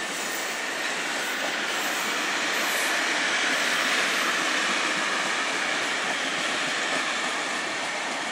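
Passenger coaches of a locomotive-hauled train rolling past on the rails: a steady running noise of wheels on track that swells a little toward the middle.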